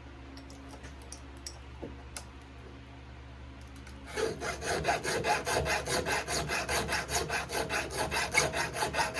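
Flat file scraping across the depth-gauge rakers of a chainsaw chain in quick, even strokes, lowering the rakers to the gauge; the filing starts about four seconds in. Before that there is only a steady low hum and a few light clicks.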